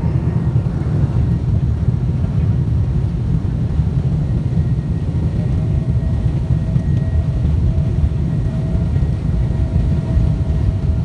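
Steady low rumble of airliner cabin noise, the jet engines and airflow heard from inside the cabin, with a faint steady hum joining about halfway through.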